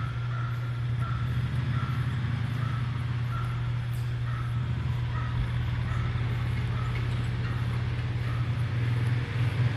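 A steady low engine-like hum, with a faint high chirp repeating about twice a second that fades out near the end.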